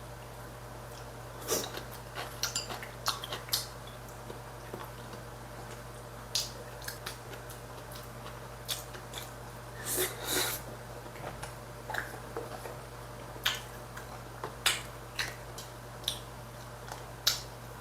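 Eating at a table: chewing, with scattered sharp clicks of utensils against dishes, over a steady low hum.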